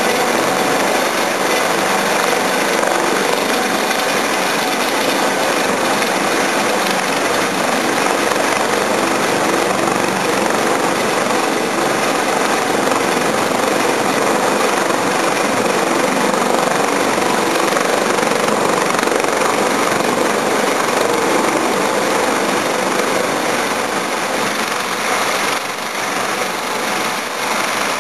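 Eurocopter AS365 Dauphin helicopter's twin turbines and rotors running, a loud steady noise that wavers slightly near the end.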